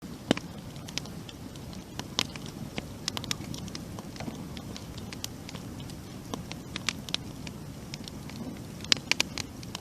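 Wood campfire burning: a steady low rush of flames with irregular sharp crackles and pops, several coming close together about nine seconds in.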